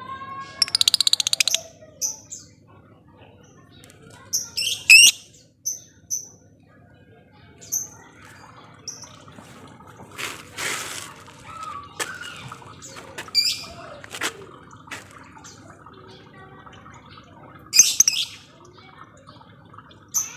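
Lovebirds calling: short high chirps scattered throughout, a rapid chattering trill about a second in and again near the end, and rising squeaky calls around five seconds in. A brief rustle around the middle.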